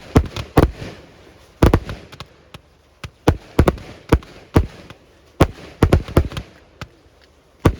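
Fireworks going off in rapid, irregular succession: about a dozen sharp bangs within a few seconds, some much louder than others.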